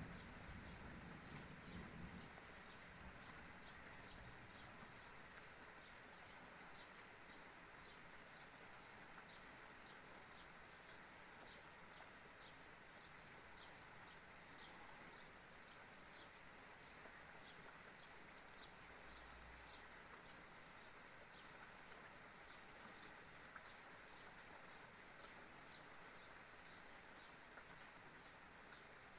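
Near silence: a faint steady hiss, with a small bird repeating a short, high, falling chirp a little more than once a second. A low rumble of distant thunder fades out in the first couple of seconds.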